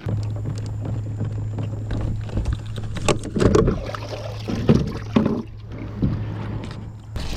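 A kayak on the water, with a steady low hum that starts abruptly and stops shortly before the end, and a few knocks and splashes between about three and five seconds in.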